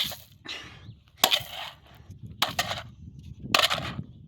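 A wooden log striking a ceiling fan: four hard blows about a second apart, each followed by a short crunching rattle of the fan's housing and blades.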